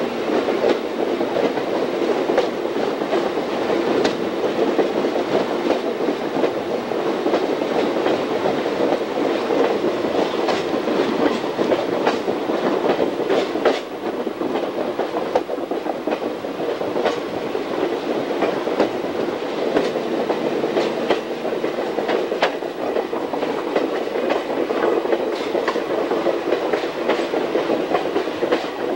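Railroad car rolling steadily along the track, heard from aboard the train: a constant rumble of wheels on rail with sharp clicks as the wheels pass over rail joints.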